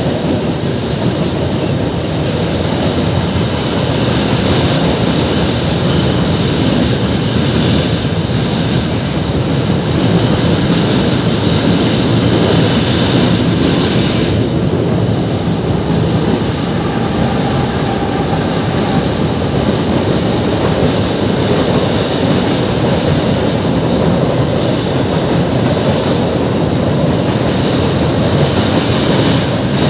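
Freight cars of a long CN freight train, tank cars and boxcars, rolling across a steel girder railway bridge. The result is a steady, loud rolling noise of wheels on rail that holds even throughout.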